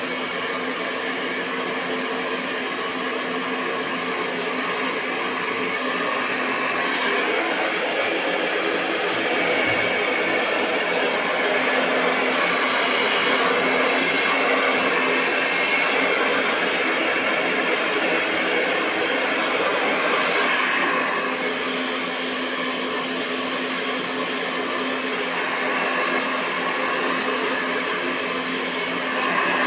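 Hair dryer running continuously: a steady rush of blown air over a constant motor hum, getting a little louder partway through and easing back.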